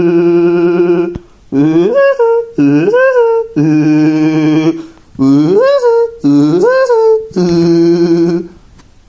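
A person's voice doing a Woody Woodpecker impression without words. Long flat held notes alternate with pairs of calls that swoop sharply up in pitch and hold at the top. The voice stops near the end.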